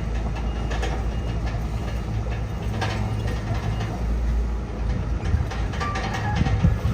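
Crawler bulldozer's diesel engine running steadily, with irregular metallic clanks and rattles from its tracks and blade; the engine surges a little near the end.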